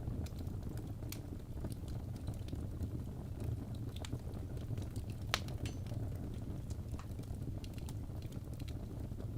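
Birch logs burning in a fireplace: a steady low rumble of the flames with frequent sharp crackles and pops, the loudest pop about five seconds in.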